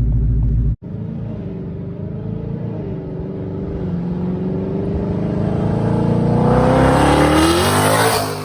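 Twin-turbo Mustang engine with open exhaust dumps accelerating hard: the note climbs steadily in pitch and grows louder for several seconds, then drops sharply at a gear change near the end. Under a second in, a steady low rumble cuts off abruptly before the pull begins.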